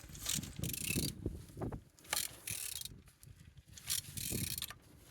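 Toyota 2SZ-FE engine being turned over by hand with a ratchet wrench on the crankshaft pulley, with ratchet clicks and a few short scraping, hissing strokes; the engine turns freely.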